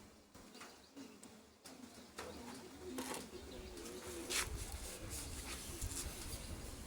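Faint low, wavering bird calls, with a few sharp clicks, the loudest about four seconds in.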